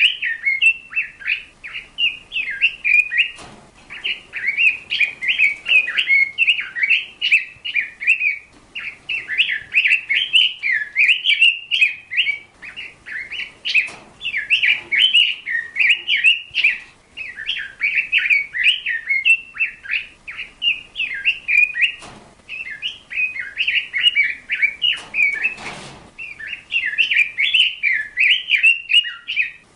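A bird chirping and warbling in fast, nearly unbroken runs of high notes, pausing only briefly now and then, with a few soft knocks in the background.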